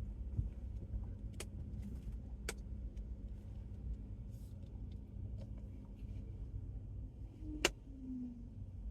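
Steady low rumble of a car driving, heard from inside the cabin, with three sharp clicks, the last one near the end the loudest.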